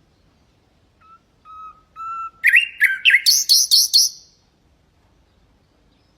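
Common nightingale singing one song phrase. It starts with three slow whistled notes that grow louder, then breaks into a loud, rapid run of repeated higher notes lasting about two seconds.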